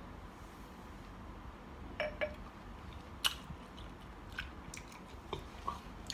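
Mouth sounds of someone eating: scattered wet smacks and clicks of chewing, about six short sounds spread unevenly over a quiet background. The loudest comes a little after three seconds in.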